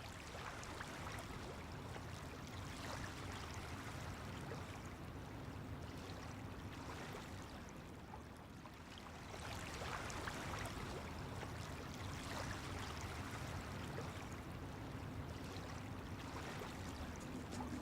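Steady flowing water that swells and eases gently every few seconds, with a faint low steady hum underneath.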